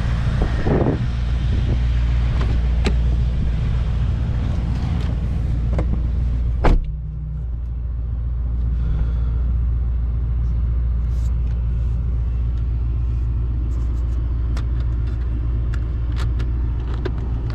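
Mercedes-AMG E63 S's twin-turbo 4.0-litre V8 idling steadily, with one sharp knock about seven seconds in.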